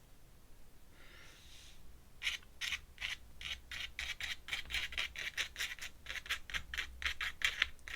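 Pen scratching on paper in quick, repeated short strokes, about three or four a second, as ink lines are hatched in. One soft rub comes first, before the rapid strokes begin about two seconds in.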